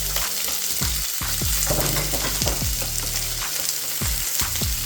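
Chopped onions and red peppers sizzling in hot oil in a frying pan, a steady crackling hiss, with a low hum underneath.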